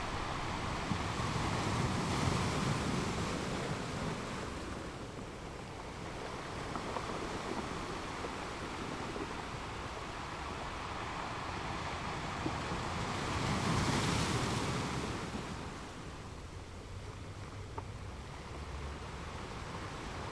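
Ocean waves washing onto a shore: a steady hiss of surf that swells with one wave about two seconds in and a larger one around two-thirds of the way through, each then easing back.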